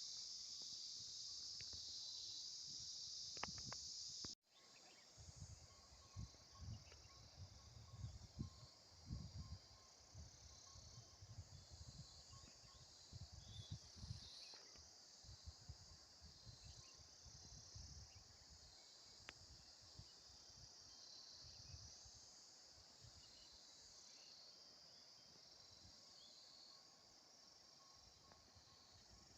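Crickets in a steady, high-pitched chorus, which drops abruptly to a softer level at a sudden cut about four seconds in. Scattered low thumps come through after the cut.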